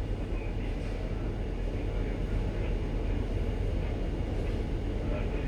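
Steady low rumble of a ship's engine and machinery, with faint distant voices.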